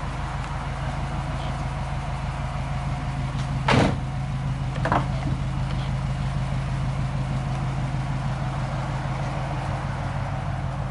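Subaru Forester STi's turbocharged flat-four EJ25 idling steadily, while its rear door is opened: a loud clack about four seconds in and a lighter click about a second later.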